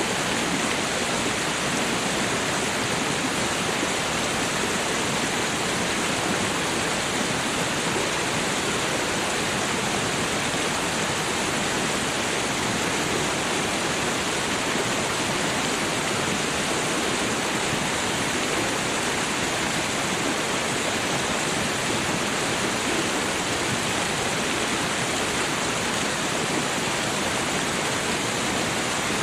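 Running water rushing steadily, an even unbroken wash with no separate splashes or drops standing out.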